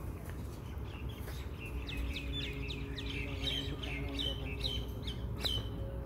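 A bird chirping over and over, a string of short falling chirps about two a second that starts about two seconds in, over a steady low rumble.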